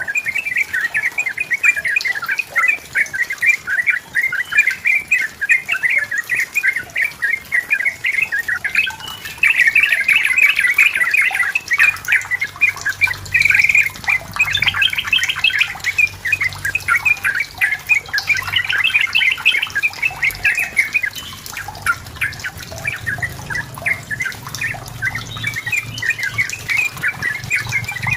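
Yellow-vented bulbul (trucukan) singing in a long, rapid run of bubbling, chattering notes, with no real break.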